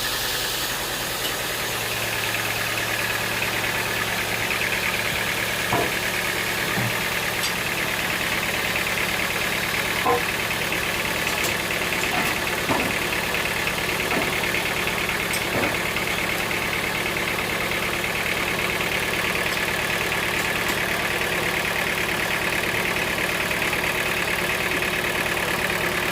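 An engine running steadily at an even speed, with a few faint knocks and clicks over it.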